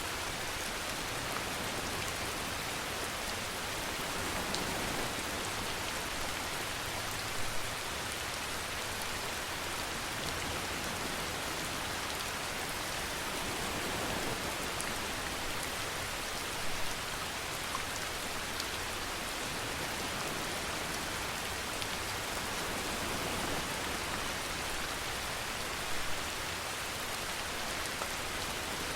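Steady rainfall with dense fine patter, and three brief, slightly louder spatters about nine seconds apart.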